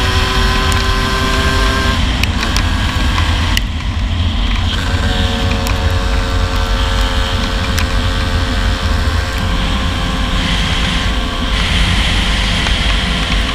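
Yamaha F1ZR's single-cylinder two-stroke engine running while riding, its pitch climbing slowly, dropping away about two seconds in and picking up again at a steady pitch a few seconds later. A strong deep rumble runs underneath.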